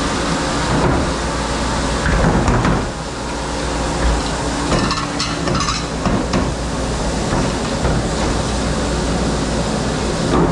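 Commercial dish-room noise: a dishwashing machine running with a steady hum and spray, with dishes and racks knocking and clattering now and then.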